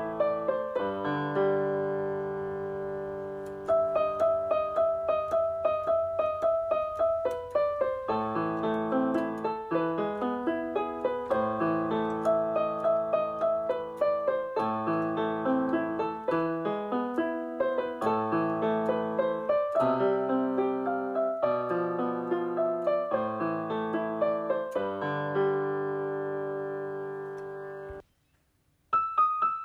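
Background piano music: a gentle melody over chords, with a brief gap near the end before it starts again.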